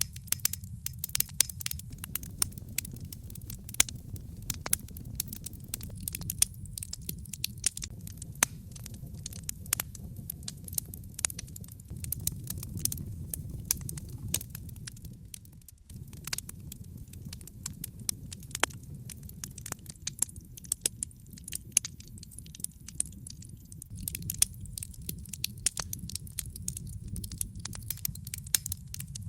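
Wood logs burning in a fireplace: frequent sharp crackles and pops over a low, steady rumble of the fire.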